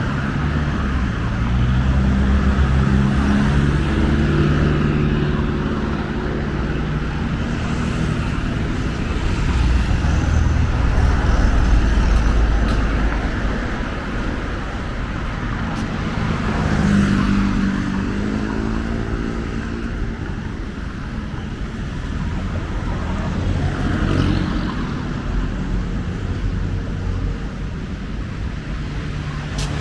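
Road traffic: engines of passing vehicles over a steady low rumble, with one vehicle's engine note rising as it speeds up about seventeen seconds in.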